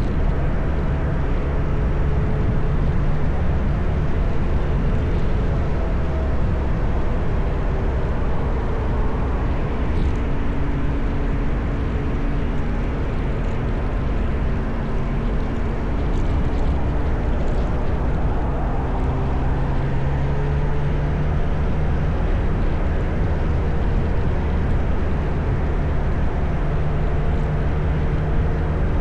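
Motorcycle engine running under way, with wind and road noise on the bike-mounted microphone; the engine note shifts up and down as the rider changes speed.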